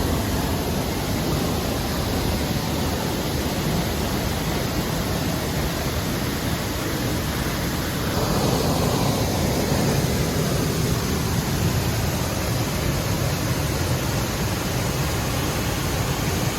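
Waterfall rushing: a steady, loud roar of falling water, growing a little louder about halfway through.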